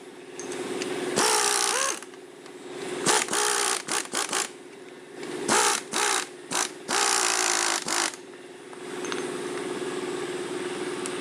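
A power tool running in several short bursts, each rising in pitch as it spins up, over a steady mechanical hum; the last few seconds carry only the hum.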